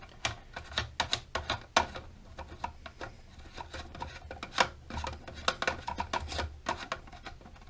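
Plastic connector nut being hand-tightened onto the threaded bottom of a toilet fill valve: irregular clicks and rubbing of plastic threads.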